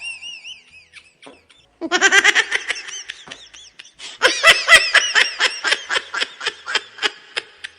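Baby laughing: a short, high wavering squeal, a brief pause, then a burst of giggles about two seconds in, and from about four seconds in a long run of quick, rhythmic laughs.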